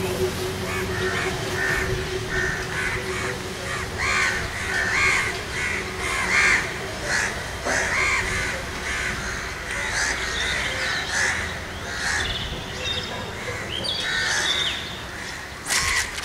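Birds calling over and over, about one call a second for much of the time, over a steady low hum; a sharp click near the end.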